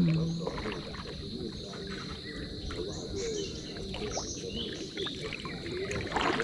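Outdoor nature ambience: a steady high insect drone with scattered bird chirps over a busy low rustling texture, opening with a brief low thump.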